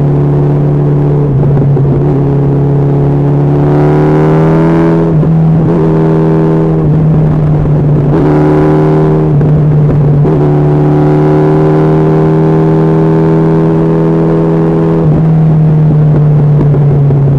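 Honda CB1300SF's inline-four engine under way, its pitch climbing and then dropping back abruptly several times as it accelerates through the gears, over a steady low drone.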